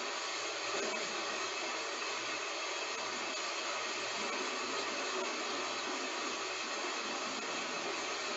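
Heavy rain falling steadily, an even hiss without change or breaks.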